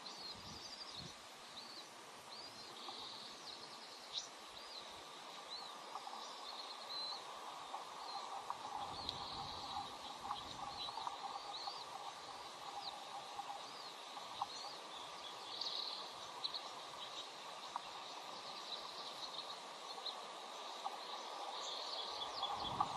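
Short, high bird chirps repeated irregularly over a steady background hiss.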